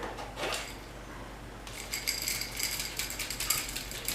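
Clicking and rattling of a switched-off, cheap plastic upright vacuum cleaner being handled while it is checked for a clog. Loose debris rattles inside it. A few clicks come first, then a dense, continuous rattle starts about two seconds in.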